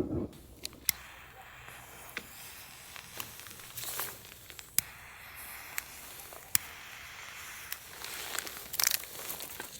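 Scattered sharp clicks and pops over a faint steady hiss, with rustling about four seconds in and again near the end.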